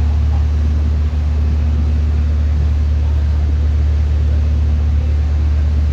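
R160 subway train giving a steady, loud low hum that does not change.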